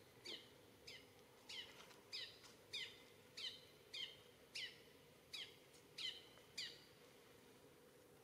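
A bird calling over and over: a short, falling, high-pitched call about every half second or so, which stops about seven seconds in, over a faint steady hum.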